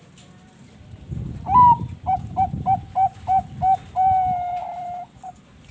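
Zebra dove (perkutut) cooing: an opening note that drops in pitch, a quick even series of about seven short coos, then one long held coo, and a last short note.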